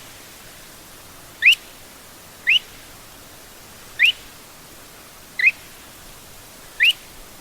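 Lesser sand plover calling: five short, upward-sweeping notes spaced about a second or so apart, over a faint steady hiss.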